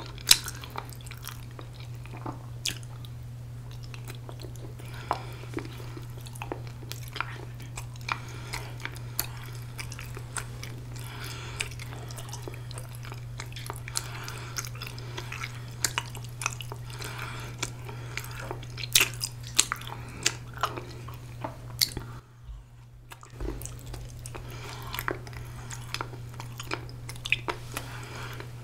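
A person chewing a chewy ramie-leaf rice cake (mosi-tteok) close to the microphone, with many short wet clicks and smacks from the mouth at irregular intervals. A steady low hum runs underneath.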